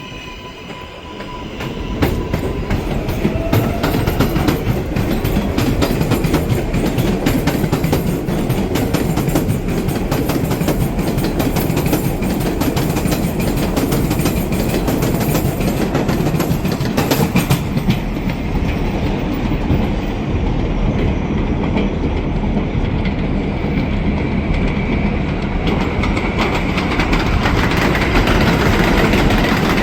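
A 7 train of R188 subway cars running along the elevated line, loud from about two seconds in, its wheels clacking rapidly over the rail joints.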